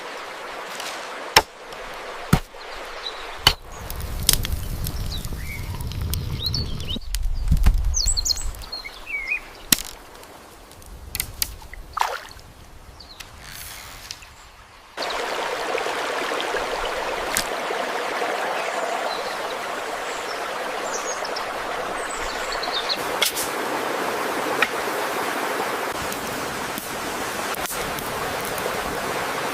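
Outdoor ambience: birds chirping over scattered knocks and clicks, then about halfway through a steady rushing noise like running water sets in suddenly and carries on.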